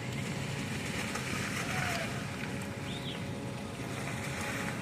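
Heavy machinery engine running steadily, a low rumble with a constant hum, and a hiss that swells midway through.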